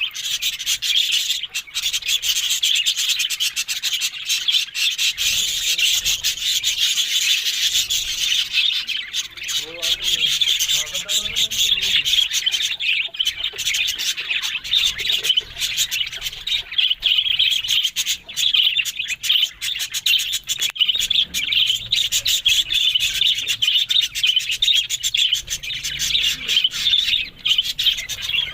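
Budgerigars chattering and chirping nonstop, a dense high twittering with many short sharp chirps.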